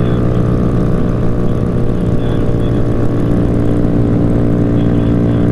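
Motorcycle engine running steadily at an even speed, a constant drone over wind and road noise.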